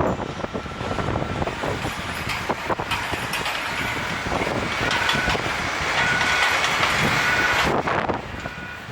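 A jet airliner's engines running loud and close, a rushing roar with a faint steady whine, building to its loudest before falling away sharply near the end.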